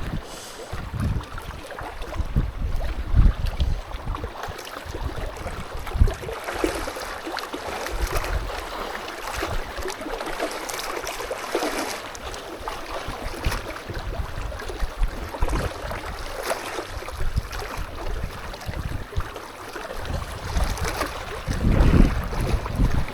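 Strong wind gusting and buffeting the microphone in heavy rain, a steady hiss with irregular low rumbles that grow stronger near the end.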